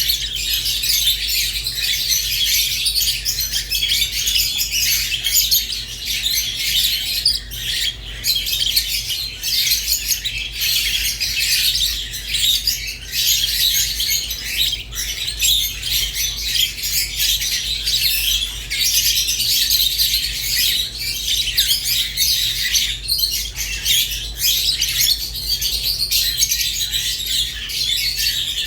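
Rosy-faced and Fischer's lovebirds chirping and chattering without a break: a dense stream of high, shrill calls over a steady low hum.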